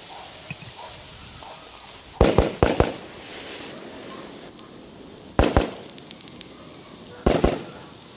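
Firecrackers going off in three quick clusters of two or three sharp bangs each, a few seconds apart, over a faint background murmur.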